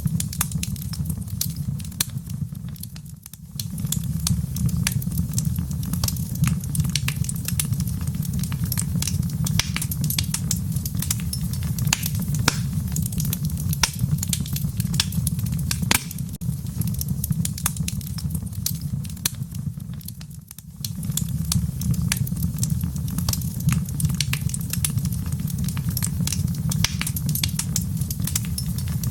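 Wood fire in a fireplace crackling: a steady low rumble of burning with frequent sharp pops and snaps. The fire sound briefly drops away twice, once a few seconds in and again about two-thirds of the way through.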